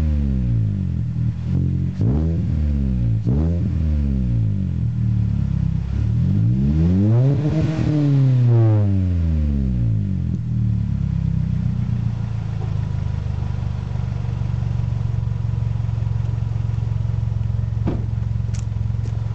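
2010 Kia Forte's 2.0 DOHC four-cylinder engine breathing through an OBX racing muffler, being revved: the revs fall away at the start, two quick blips follow, then a slower climb and fall about six to ten seconds in, after which it settles to a steady idle.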